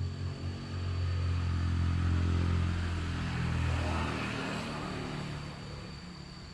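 A motor vehicle's engine passing by, growing louder, then dropping in pitch and fading away after about four seconds.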